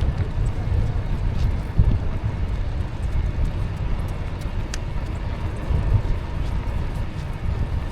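Wind buffeting the microphone on a moving e-bike: a steady, gusting low rumble, with a few faint light ticks.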